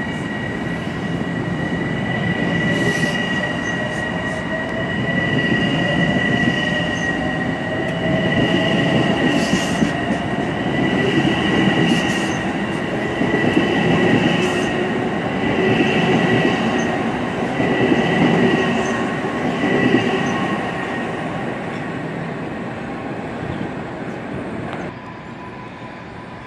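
Long Island Rail Road M7 electric train rolling past at close range: the wheels rumble on the rails under a steady high-pitched whine, and the sound swells about every two seconds. The sound drops suddenly near the end.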